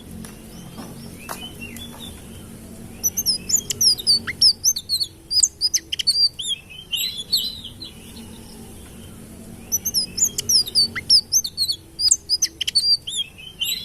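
Sitrun (indigo flycatcher) singing: long phrases of rapid, high, sliding whistled notes, with a quieter pause of a few seconds between two phrases.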